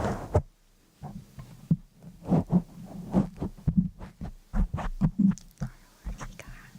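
An irregular series of soft taps and clicks, several a second.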